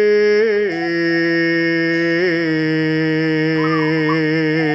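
A man's voice singing a Javanese kidung (tembang) in a slow, drawn-out chant. He holds one long note that steps down in pitch just under a second in, then sustains it with a slight waver.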